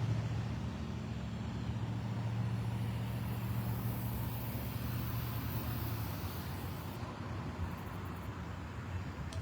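A motor vehicle's engine running steadily over traffic and road noise, its low hum easing off about seven seconds in.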